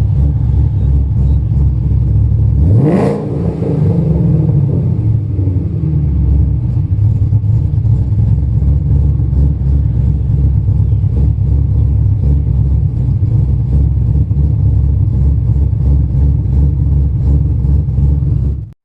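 Ford Mustang GT's 5.0 V8 with Kooks catless longtube headers and an MBRP Race catback, rumbling at idle. It gives one quick rev blip about three seconds in, then settles back to a steady, loud, deep idle, and the sound cuts off abruptly at the end.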